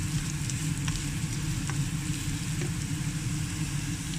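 Carrots and onion sizzling in hot oil in a frying pan, with a few light ticks of a plastic spatula, over a steady low hum.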